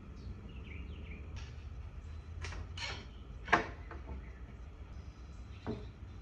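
A wooden dresser drawer being handled during glue-up: a few short scrapes, then one sharp knock about halfway through and a lighter knock near the end, over a steady low hum.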